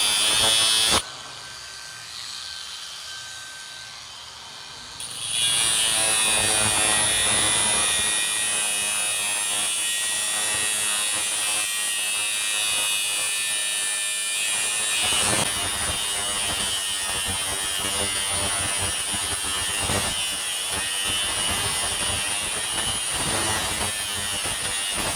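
Kynko brushless cordless angle grinder running at speed with a high steady whine. It drops away about a second in, starts again about five seconds in, and then runs on cutting through steel with a harsh grinding sound.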